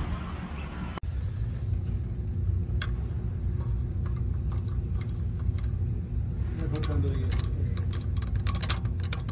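Engine running with its turbocharger's intake open: a steady low rumble, with irregular sharp clicks that come more and more often toward the end.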